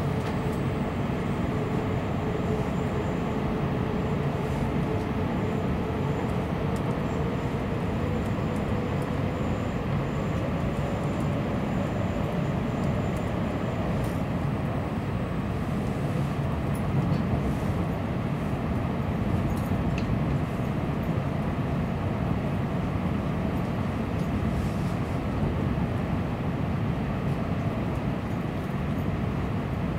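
Running noise of a Tokaido Shinkansen train heard from inside the car as it slows for its station stop: a steady rumble and rush of wheels on rails, with a faint whine that fades away about halfway through.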